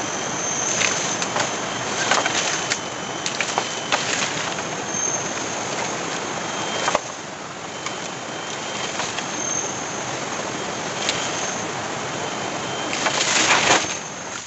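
Heavy rain falling steadily, with scattered sharp drop taps close by and a thin high tone coming and going.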